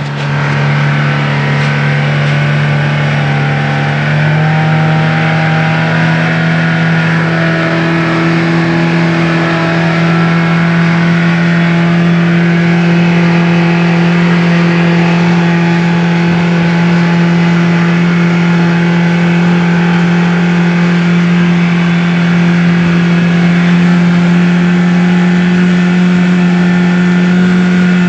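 Boat engine running loud and steady, its pitch stepping up about four seconds in and then creeping slowly higher.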